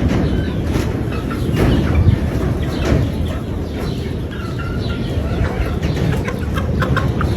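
Gamefowl chickens clucking, with short calls repeated throughout, over a steady low rumble.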